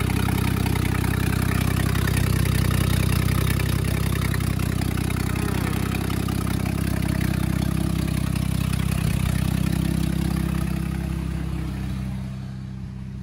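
Nissan R31 Skyline's RB30 turbo straight-six idling steadily, warm, while the newly fitted turbo's oil feed is tested. The level eases down a little near the end.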